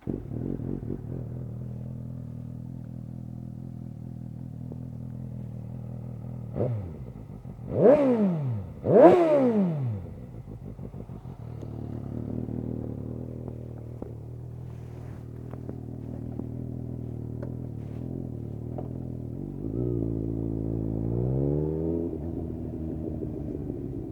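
2019 Suzuki GSX-S750 inline-four running through a Yoshimura SQ11 exhaust with no dB killer and a decat pipe: idling, a short blip of the throttle, then two sharp revs in quick succession that rise and fall back to idle. Near the end the revs rise and fall again more slowly.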